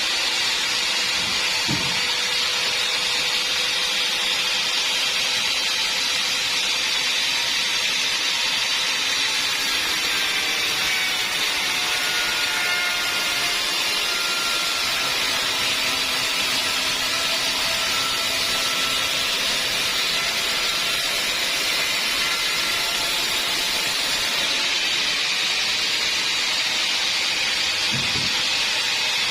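Sawmill saw running steadily, an even hissing machine noise with faint whining tones that drift in pitch through the middle.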